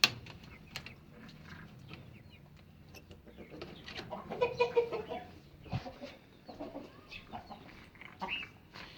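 Chickens clucking: scattered short calls in loose clusters, busiest about four to five seconds in, after a single sharp click at the start.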